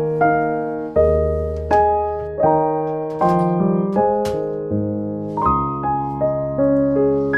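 Background piano music: soft chords and melody notes struck at an even pace, each note fading after it is struck.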